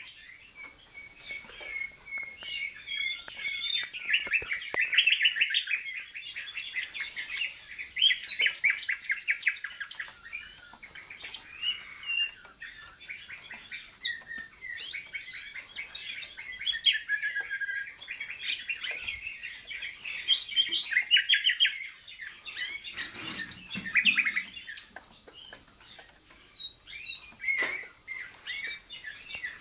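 Canaries and a young nightingale singing: long runs of fast trills and warbled phrases, one after another with short breaks.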